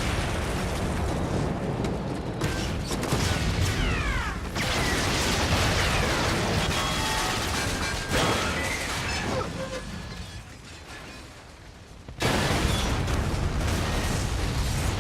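Battle sound effects from a war film: a dense, loud din of booms and machinery with falling whistling tones, easing off around ten seconds in and surging back suddenly about two seconds later.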